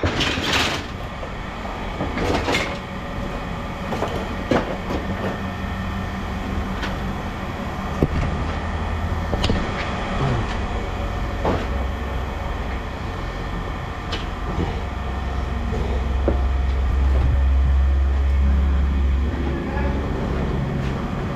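Steady low engine rumble, heavier in the second half, with scattered knocks and clanks of scrap metal being handled.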